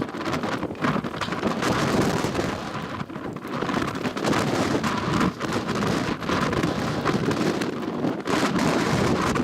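Strong mountain wind buffeting the microphone: a loud, dense rushing noise that rises and falls in gusts.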